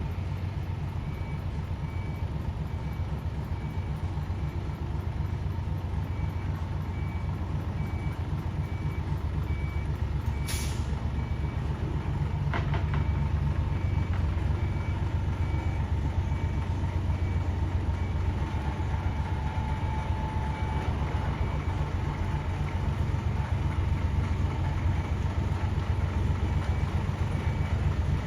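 Isuzu Forward truck's diesel engine idling through a split exhaust manifold (mani-wari) and single muffler drum: a steady low rumble. A faint short beep repeats about twice a second, and there is a sharp click about ten seconds in.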